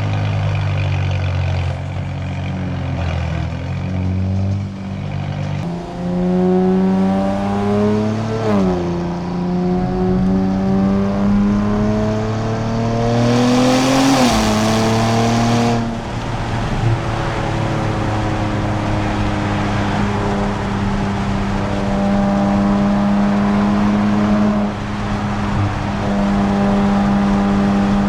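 Nissan Z Nismo's twin-turbo V6 through a Nismo Track exhaust, driving on the road. The engine note climbs and drops at a gear change about 8 s in, climbs again and drops at another shift around 14 s with a brief rush of hiss, then settles to a steady cruise.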